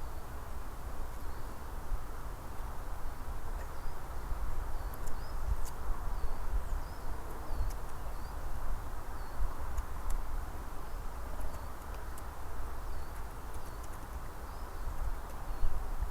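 Forest ambience on a trail camera's microphone: a steady low rumble and hiss. From a few seconds in until near the end, a run of faint, short, high chirps repeats one or two a second.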